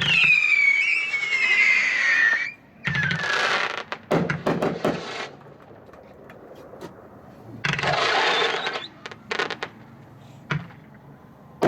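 A 500-gram consumer fireworks cake firing its shots: a whistle that falls in pitch for about two and a half seconds, then several bursts with a crackling hiss, and a few sharp pops near the end.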